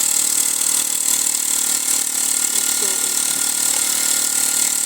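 Mamod SW1 toy steam wagon's live-steam engine running with a steady hiss of steam. It runs poorly because oil has got into the engine and is being flushed through.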